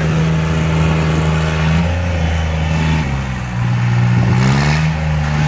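New Holland 3630 tractor's diesel engine running hard and steady. The revs sag about three seconds in, then climb again about a second later.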